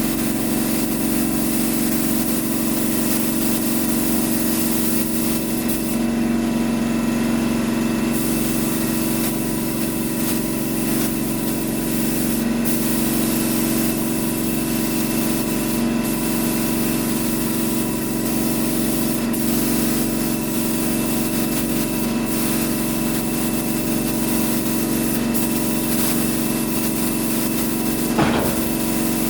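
Spray gun hissing as it lays clear coat, over a steady motor hum. The hiss stops briefly about six seconds in and for short moments several times later, as the trigger is released between passes.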